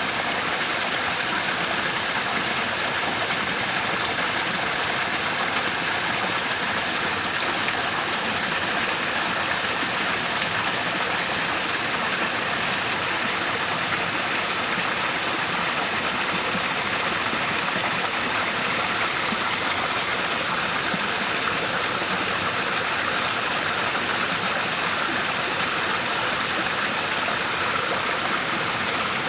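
Waterfall: water falling and rushing in a steady, even hiss with no change.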